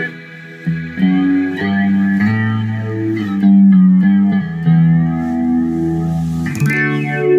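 Electric guitar playing held notes and chords through a simulated through-zero flange from a Mobius modulation pedal. A sweep rises and falls through the tone, most clearly past the middle.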